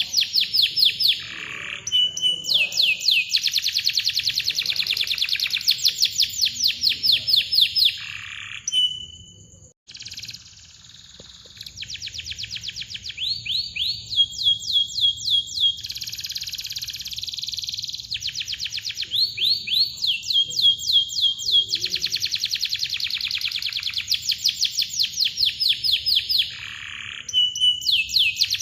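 Domestic canary in full song: rapid trills of repeated chirps and long, tight rolls. The song breaks off briefly about a third of the way in, then resumes.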